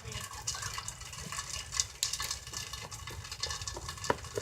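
Heavy rain pattering steadily, with many irregular sharp drops and taps.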